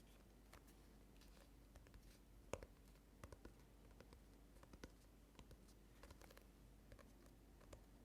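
Faint, irregular light taps and clicks, an ASMR tapping trigger, with one louder tap about two and a half seconds in.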